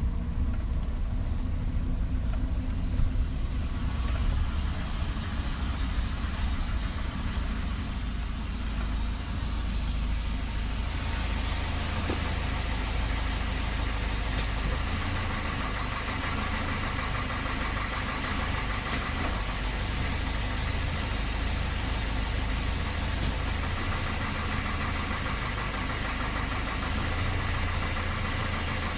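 Volvo 240 GL engine running steadily at idle with a knock that the owner takes for most likely piston slap, the engine otherwise running fine. A brief high-pitched beep sounds about eight seconds in.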